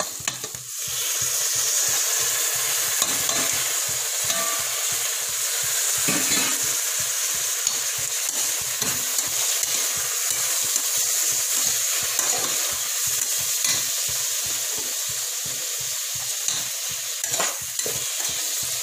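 Chopped tomatoes and green chillies sizzling in hot oil with fried onions in a pressure cooker, the sizzle jumping up within the first second as they go in. They keep frying steadily while a steel spoon stirs and scrapes them around the pot.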